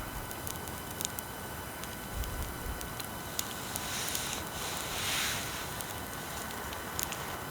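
A wood bonfire crackling, with scattered sharp pops and a brief rushing swell about four seconds in. Underneath runs a steady hiss and a thin high whine from faulty recording equipment.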